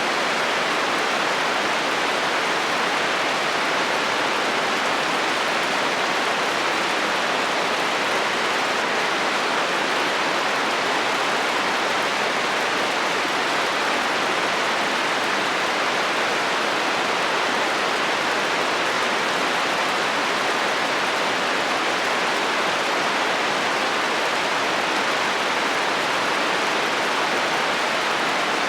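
Steady heavy rain falling on a metal roof: an even, unbroken hiss with no thunder.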